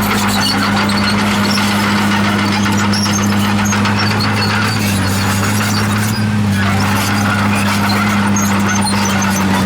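Komatsu D51PX crawler bulldozer working, its diesel engine running at a steady pitch under a constant clatter, with scattered short high-pitched squeaks from the tracks.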